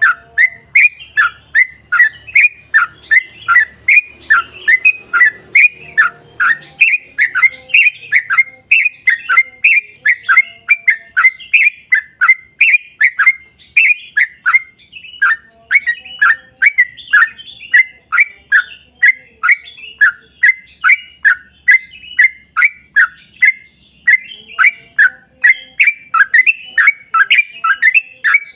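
Yellow-vented bulbul (trucukan) calling in a long, unbroken run of quick falling chirps, about three or four a second.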